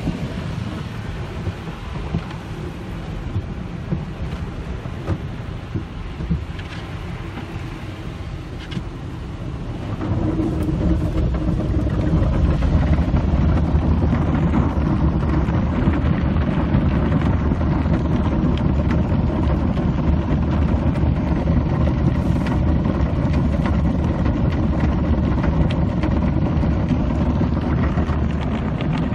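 Automatic car wash working over a car, heard from inside the cabin: a steady wash of water spray and brushes on the body. It gets louder and heavier about ten seconds in.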